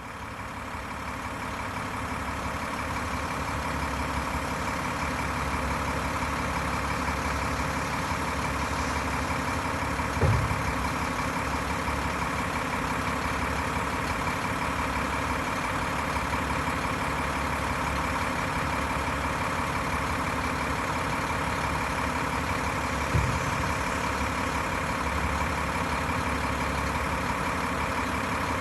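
International HT570 inline-six diesel engine of a 2009 International 7400 dump truck idling steadily, with two brief knocks, about ten seconds in and again near the end.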